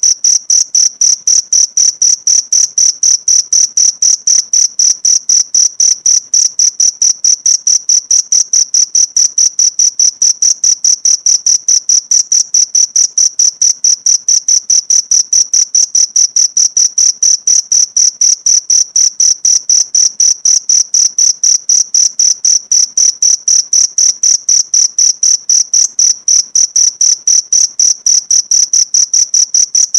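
Cricket chirping in a fast, even train of high-pitched pulses, about five a second, all on one pitch. It starts abruptly out of silence.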